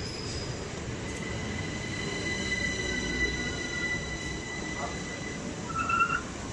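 Class 377 Electrostar electric train running into the platform: a rumble under thin, steady high whines that slide slowly down in pitch as it slows, with a brief squeal near the end.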